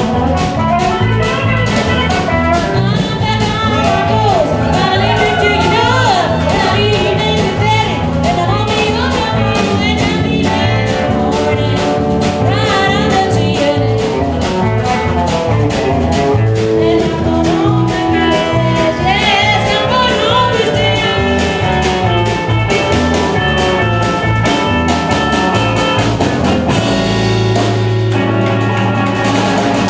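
Live band playing a blues-country rock number: a steady drum beat and bass under a lead line that bends in pitch, settling into held chords near the end.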